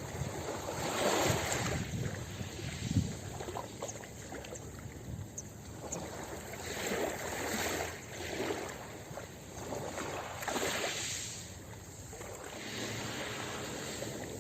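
Ocean waves washing onto a beach: a steady rush of surf that swells and fades again several times.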